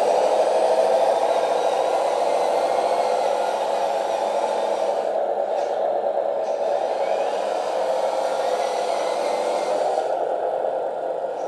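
1/18 Capo Tatra RC truck running at low speed, its onboard sound module playing a steady simulated truck engine sound through its speaker.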